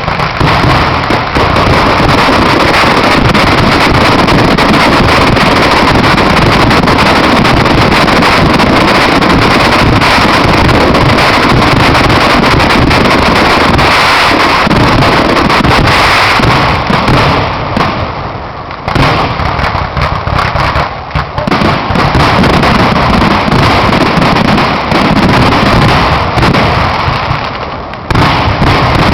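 Fireworks going off in a loud, dense, continuous barrage of bangs and crackle. It eases briefly about two-thirds of the way through, then builds again.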